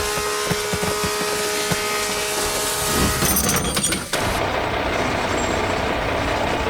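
Heavy construction-vehicle engine sound effect: a steady engine drone for about three seconds, a clattering burst about three seconds in, then a rougher, noisier engine rumble.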